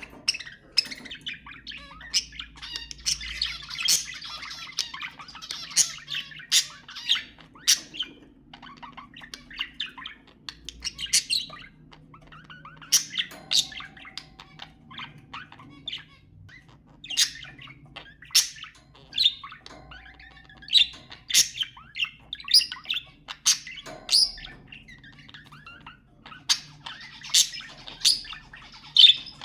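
Budgerigars chattering: a run of sharp, irregular chirps and squawks with warbling between them.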